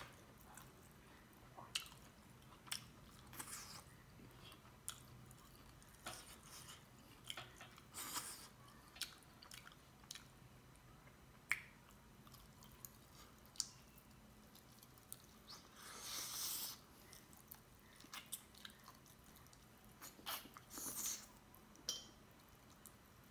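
Faint, close-up chewing and mouth sounds of a person eating by hand: scattered wet lip smacks and clicks, with a few longer, louder smacks about 8 and 16 seconds in.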